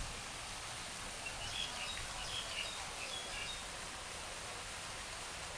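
Small birds chirping, a quick string of short high calls from about one and a half to three and a half seconds in, over a steady hiss of spraying water from a pond fountain.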